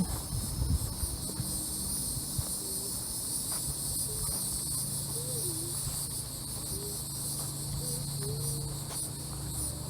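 Chorus of insects such as crickets or cicadas: a steady, high-pitched shrill buzz with a slight pulsing.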